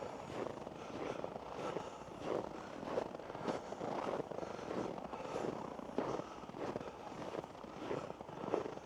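Footsteps of a walker on a woodland trail, a little under two steps a second, each step a short crunch.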